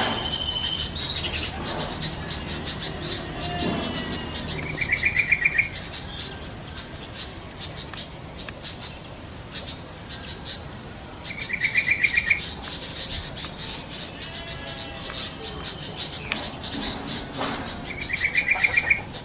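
Yellow-vented bulbuls (trucukan) calling in the wild. A short, rapid trilled phrase comes three times, about every six to seven seconds, over a steady chatter of high chirps.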